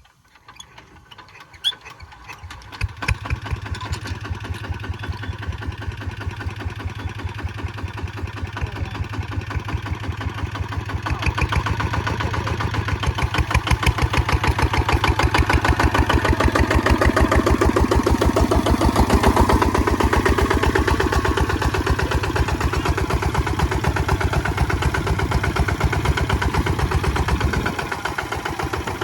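Kubota ZT155 single-cylinder diesel engine starting up and then running with a steady, rapid chug; it speeds up and gets louder about eleven seconds in, and eases back a little near the end.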